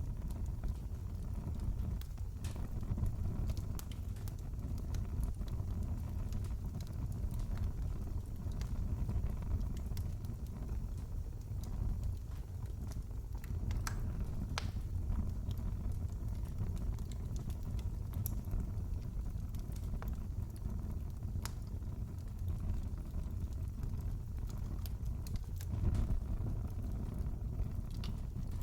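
Wood fire crackling in a fireplace: a steady low rumble of the flames with scattered sharp pops and snaps, a few louder ones near the middle.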